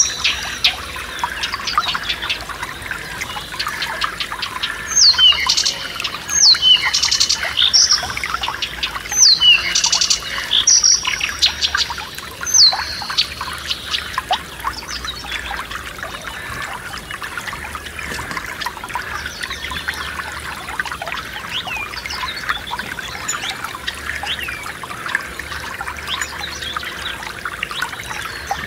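Forest stream trickling steadily, with birds singing over it: a run of loud, sharply falling whistled calls between about five and thirteen seconds in, then fainter scattered calls.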